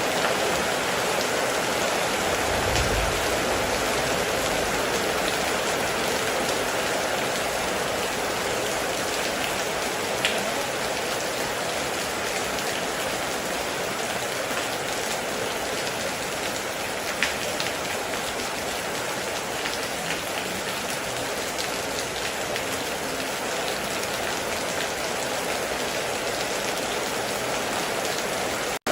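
Steady heavy rain with a dense, even hiss, broken by a few single louder drop strikes. A brief low rumble comes about two to three seconds in.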